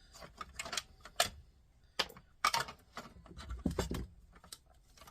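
Scattered small clicks, taps and scrapes of plastic and metal turntable parts being handled and pried apart, with a heavier knock nearly four seconds in.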